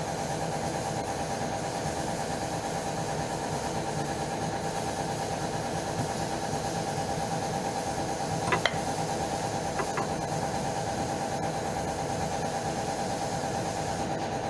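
Engine idling steadily, with a few short sharp clicks about eight and a half and ten seconds in.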